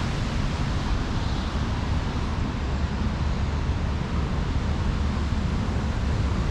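Steady road traffic noise mixed with wind on the microphone, heavy at the low end with no distinct events.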